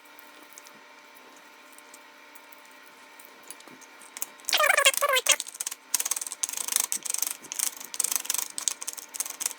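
Garlic cloves being crushed with a hand-held garlic crusher. After a few seconds of faint steady hum comes a short squeak about halfway through, then a rapid run of clicking and cracking as the cloves are crushed.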